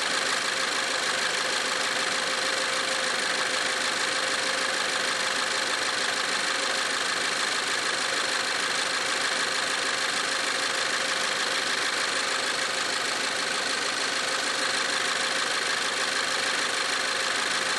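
Car engine idling steadily, with no change in speed.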